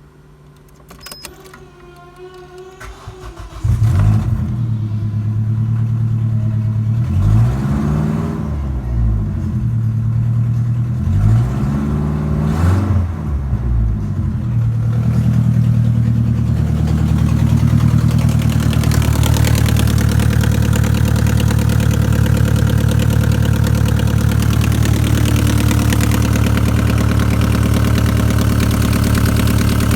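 Opel Zafira A's 1.6-litre Z16XE four-cylinder petrol engine starting up about four seconds in, then idling, revved briefly twice and settling into a steady run.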